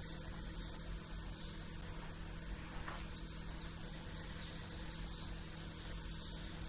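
Small birds chirping faintly in short, scattered calls over a steady low hum.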